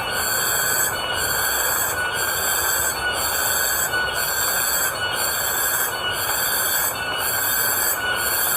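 Steady rain falling, with a chorus of insects shrilling high overhead in a regular pulse about once a second.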